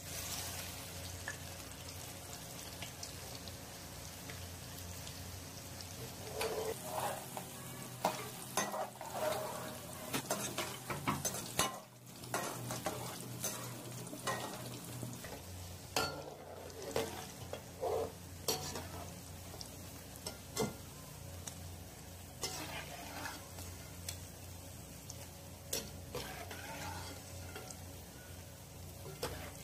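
Pakoras sizzling steadily in hot oil during their second fry, with a metal slotted spoon clinking and scraping against the steel pot from about six seconds in as they are stirred and lifted out onto a strainer.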